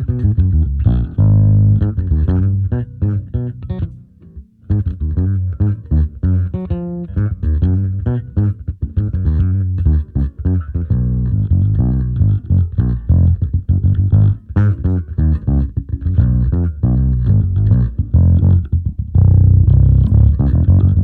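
Electric bass playing a busy riff through a SansAmp preamp and a speaker-cabinet impulse response, its sound trimmed of high treble. The playing breaks off briefly about four seconds in, then carries on.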